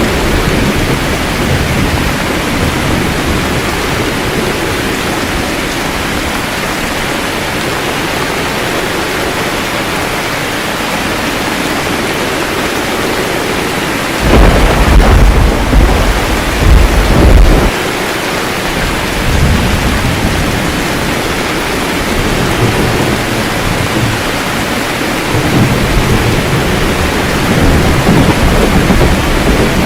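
Steady rain falling throughout a thunderstorm. About halfway in, a loud clap of thunder breaks in suddenly and rumbles for about three seconds. Fainter rolls of thunder follow.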